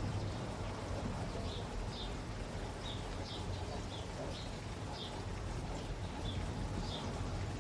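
Steady rain falling, with a bird chirping short high notes about twice a second from a couple of seconds in until near the end.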